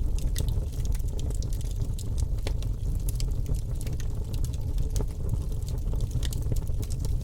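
Wood fire burning in a fireplace: a steady low rush of flames with many small sharp crackles and pops scattered throughout.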